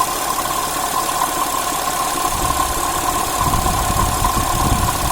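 2010 Audi S4's 3.0 supercharged V6 idling, with a steady whine over the engine noise and the faint rattle of a failing water pump, which a stethoscope traces to the pump. The low rumble grows stronger in the middle.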